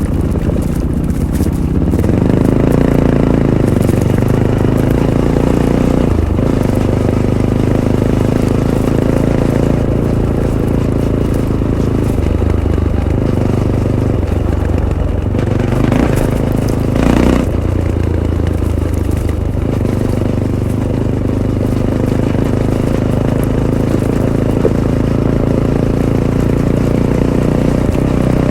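Fantic Caballero 500's single-cylinder engine running through its Arrow exhaust while riding off-road, the note rising and falling with throttle and gear changes. A brief rushing, rattling noise joins in about 16 and 17 seconds in.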